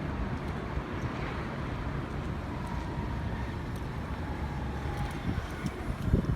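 Street noise while walking: a steady rumble of traffic with wind on the microphone, gusts buffeting it near the end.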